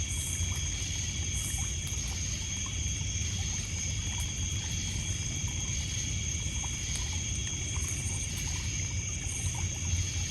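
Night insects, crickets among them, trilling steadily at several high pitches over water lapping on a pebble beach, with a few faint crackles from a campfire.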